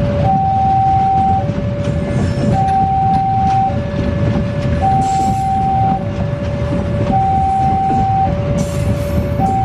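Level-crossing warning signal sounding a steady two-tone alarm, a higher and a lower note alternating about once a second, over the heavy rumble of a passing train.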